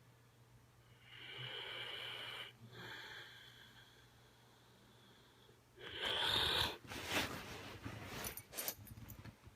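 Dog snoring, each breath carrying a whistling wheeze: two long drawn breaths, then a louder snort about six seconds in. A run of short sharp clicking noises follows near the end.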